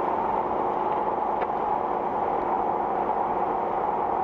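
Steady road and engine noise heard inside a Jeep's cabin while driving, an even rumble and hiss without distinct events.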